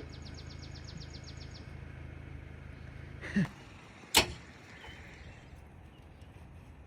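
Vehicle engine idling with a steady low hum that cuts off about three and a half seconds in, with a fast high ticking during the first second and a half. A single sharp bang, the loudest sound, comes about four seconds in.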